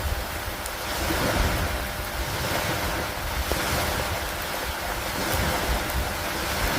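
Steady storm wash of rain and wind over lake water, swelling and easing every couple of seconds, with low wind rumble on the microphone.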